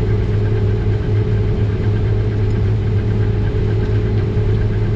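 Combine harvester running during soybean harvest, a steady engine and machinery drone heard inside the cab.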